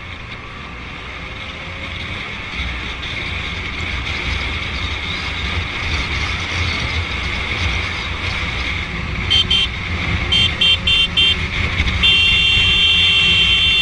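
Steady wind and engine noise of a moving motorcycle, slowly growing louder; then a horn sounds: one short beep, four quick beeps, and a long blast held for about three seconds near the end.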